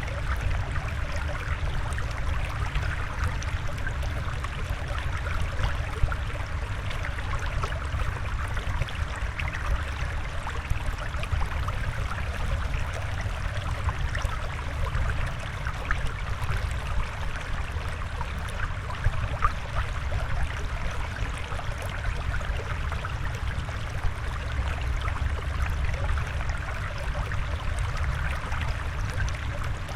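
Steady flowing water with a low rumble and fine trickling, like the water sound of a fish tank.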